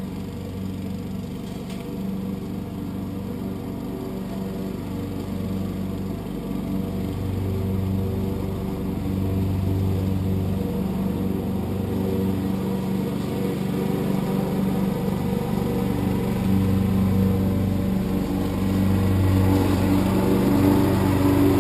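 Husqvarna lawn tractor's engine running at a steady speed while it mows up leaves, getting louder toward the end.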